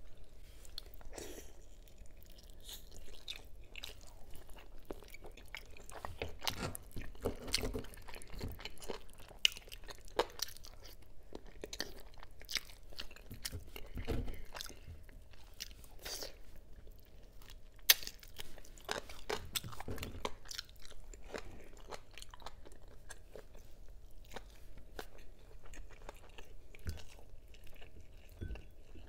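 Close-miked chewing and biting of braised chicken wing and pork rib adobo eaten by hand: irregular mouth clicks and chews, with a few louder bites and one sharp click about two-thirds through.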